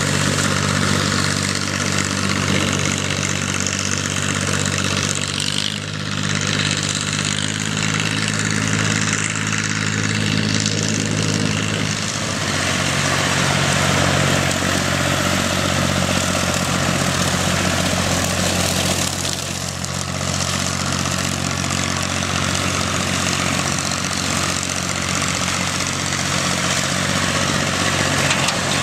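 Tractor engine running steadily while topping paddock grass with a rotary slasher, with a dense mowing hiss over the engine note. The engine note shifts about twelve seconds in.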